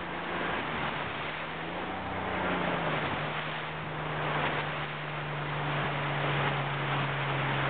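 A motorboat engine running steadily, its note shifting once about three seconds in, over a steady rush of wind and water.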